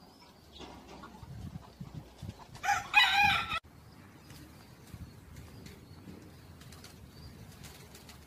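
A loud bird call: one harsh, pitched, wavering cry about three seconds in that cuts off suddenly after less than a second, over a faint background.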